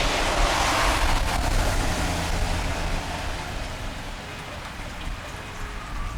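Steady rain with a vehicle passing on the wet street: its tyre hiss is loudest at the start and fades away over the first few seconds, leaving the rain and a low traffic rumble.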